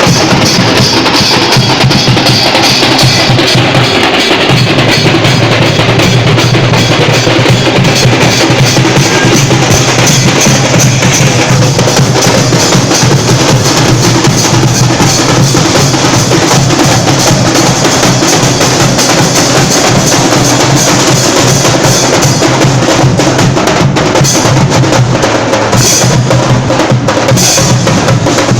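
Loud, fast drumming with a heavy bass drum, kept up without a break.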